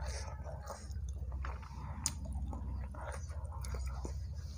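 A person chewing the last mouthful of bakso meatball soup, with soft wet mouth clicks and one sharper click about two seconds in, picked up close by a clip-on microphone over a low steady hum.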